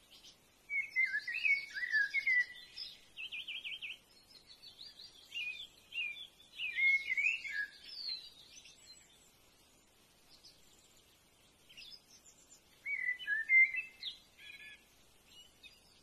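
Wild birdsong: quick chirps, warbling phrases and a fast trill, in a long bout that fades after about eight seconds, then a shorter bout near the end.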